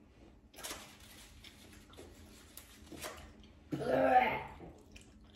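A few soft rustles, then a short voiced sound from a person, not words, lasting just under a second and loudest about four seconds in.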